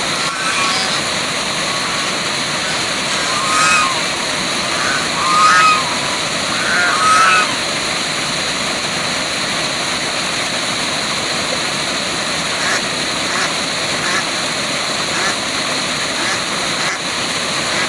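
Waterfall rushing steadily. A bird gives a few short calls over the falling water in the first half.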